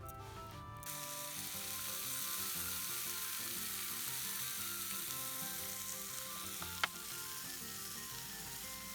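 Food sizzling steadily in a hot pan. It starts about a second in, has one sharp click or pop just before the end, and cuts off abruptly. Soft background music plays underneath.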